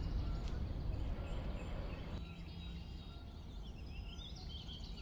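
Faint bird chirps, many short calls, over a low steady rumble that drops in level about two seconds in.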